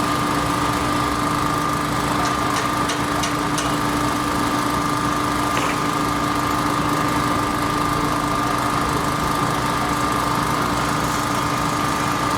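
Engine of a piece of construction machinery running steadily at a constant speed, with a few short clicks about two to three and a half seconds in.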